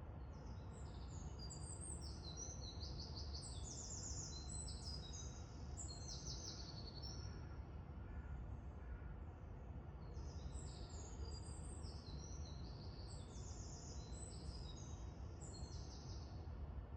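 Many small birds calling in two dense bouts of high, rapid chirps and trills over a steady low background rumble.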